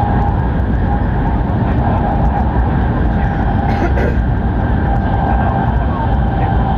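Cabin running noise of an E7/W7-series Hokuriku Shinkansen train: a steady, loud rumble with a constant hum, and a short knock about four seconds in.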